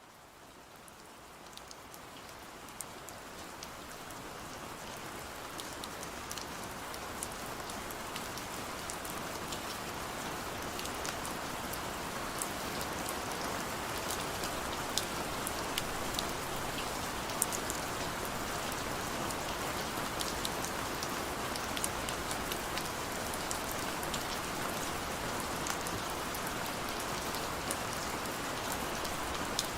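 Heavy rain falling steadily, a dense hiss flecked with sharp individual drop hits, fading up from quiet over the first several seconds.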